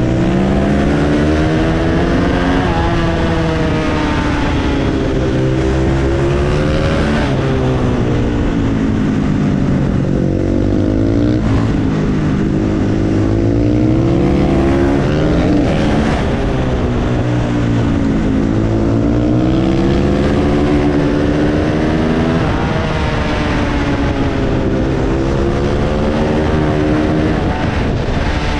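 Husqvarna FS450 supermoto's single-cylinder four-stroke engine at racing pace on a kart track, revving up through the gears and falling off into each corner, its pitch rising and dropping again and again.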